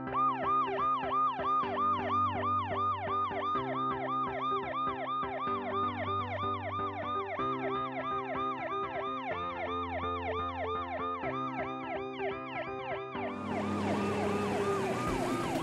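Police car siren in a fast yelp, the pitch sweeping up and down about three or four times a second. About 13 seconds in, a rushing noise and a slower falling tone join the siren.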